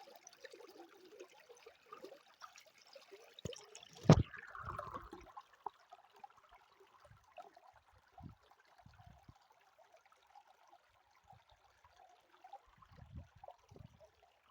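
Stream water trickling and running over rocks, faint and steady. A single sudden loud thump about four seconds in, with a few faint low bumps later.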